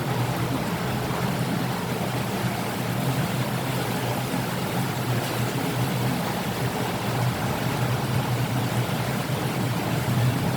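Steady rain falling: a continuous even wash of noise with a low band underneath and no clear thunderclap.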